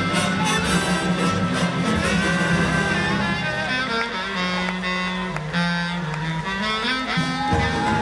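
Live orchestral music, strings and brass playing held notes and a gliding melody line.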